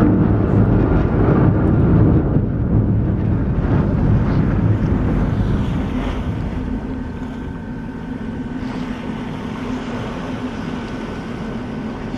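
Steady hum of a ship's engines and machinery, under a loud rushing noise that starts suddenly and eases off about halfway through.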